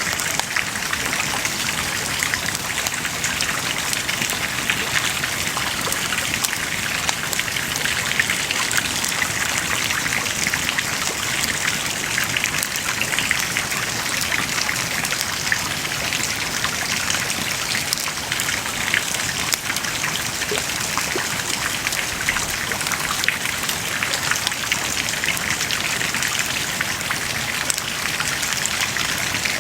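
Wood fire burning steadily, with a continuous hiss and a dense patter of small crackles and pops.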